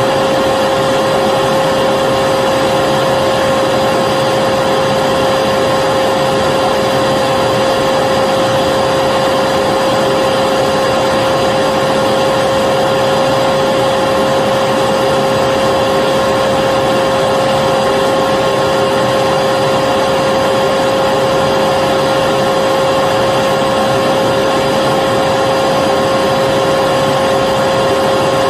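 Vacuum cleaner running at a constant speed, a steady whooshing noise with a strong unchanging whine in it.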